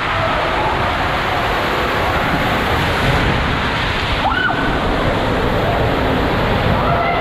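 Loud, steady rush of water, with faint distant shrieks or calls rising and falling a few times, the clearest about four seconds in.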